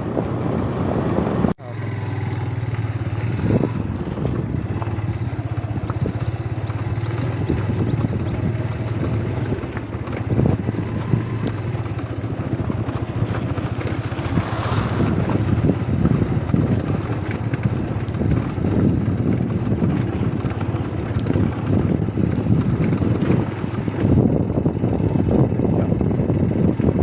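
Motorcycle engine running steadily under way, with wind rushing over the microphone; the sound breaks off for an instant about a second and a half in.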